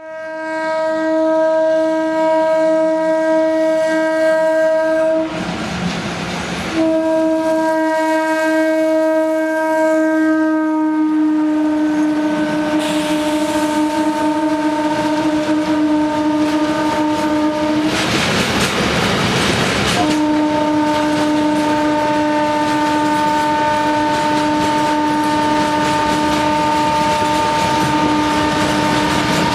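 Indian Railways locomotive horn held as one long steady note, broken twice by a couple of seconds of noisy rushing, over the rumble and clatter of a train on the rails.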